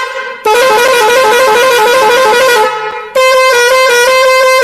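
Loud electronic horn tones, sounded in two long blasts. The first warbles up and down in pitch. The second, starting about three seconds in, pulses rapidly on one steady note.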